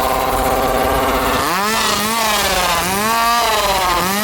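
Two-stroke chainsaw idling steadily, then revved up and down about once a second from about a second and a half in.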